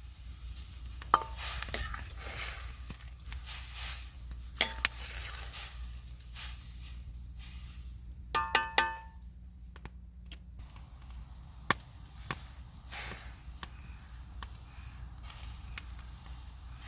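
Cookware and utensils being handled: scattered sharp knocks and taps, and a ringing metal clink about eight and a half seconds in.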